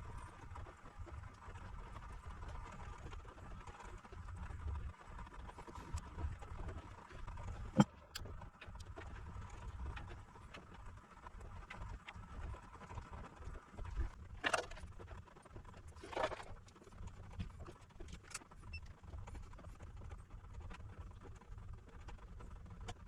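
Hands and tools working on an inverter's circuit board on a workbench: scattered small clicks and taps over a low handling rumble, one sharp click about eight seconds in, and two short scraping rustles a little past the middle.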